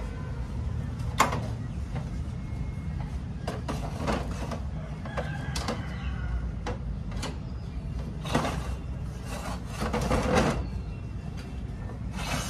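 Scattered clicks, taps and short scrapes of parts being handled on a photocopier's main board, with a longer rustling scrape about eight seconds in and again around ten seconds, over a steady low hum.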